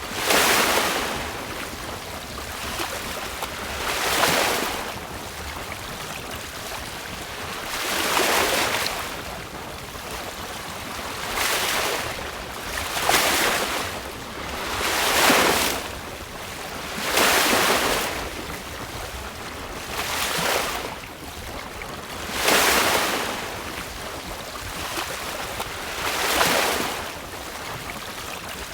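Sailboat moving through a choppy sea: water rushes and splashes along the hull in surges every two to four seconds. Under it runs a steady low rumble of wind on the microphone.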